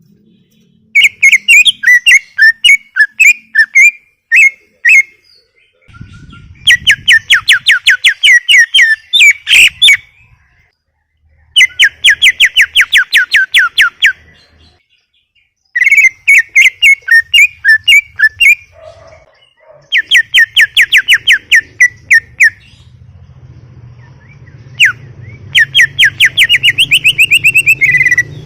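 Cucak ijo (green leafbird) singing loudly in rapid phrases of repeated sharp chirping notes, each phrase lasting one to four seconds, with short pauses between them.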